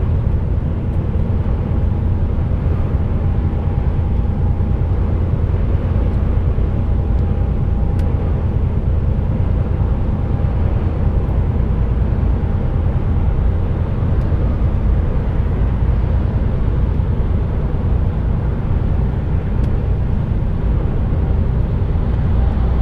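Heavy goods lorry's engine and road noise heard from inside the cab: a steady, loud low rumble as the truck labours up a climb on the motorway, with a faint steady whine above it.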